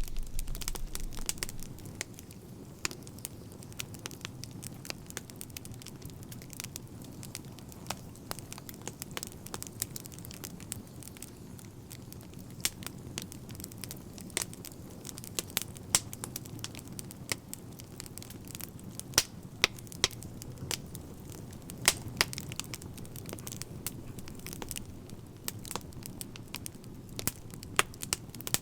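Crackling fire: irregular sharp pops and snaps of burning wood over a low, steady rumble of flame.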